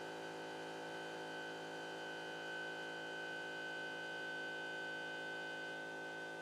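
Stepper motors of a CNC pen-plotting machine whining steadily as it drives the pen, with a higher tone joining about a second in and dropping out near the end.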